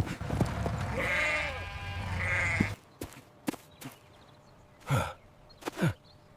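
Sheep bleating: one wavering call about a second in that lasts nearly two seconds, followed by a few scattered clicks and two short falling swoops near the end.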